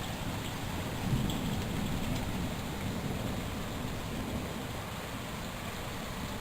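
Steady rain falling, with a low rumble underneath that swells slightly about a second in.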